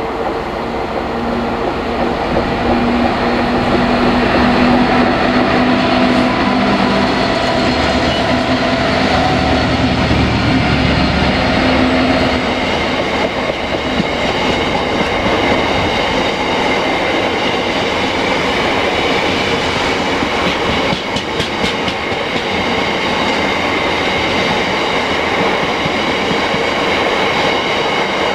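A train passing the lineside: a locomotive's engine hums loudly for the first twelve seconds or so, then fades, leaving the steady rumble of wagons rolling by on the rails, with thin high tones from the wheels and occasional clicks over the rail joints.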